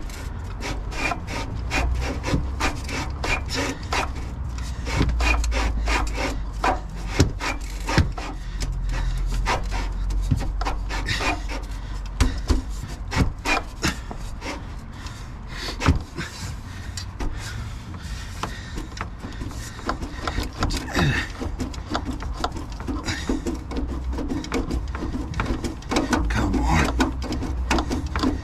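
Stuck exhaust tip scraping and grating against the exhaust pipe as it is twisted and worked loose by hand, with many sharp clicks and knocks.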